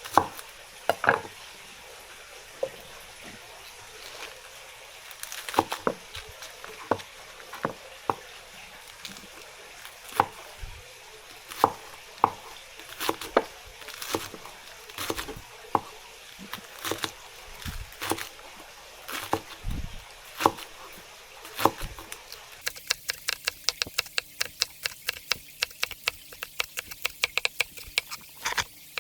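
Kitchen knife striking a wooden cutting board: scattered single cuts, then about two-thirds of the way in a fast, even run of chopping, as when mincing.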